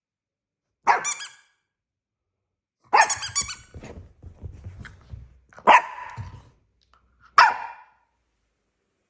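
Maltipoo puppy barking four times, short high barks a couple of seconds apart, with soft low thuds between the second and third.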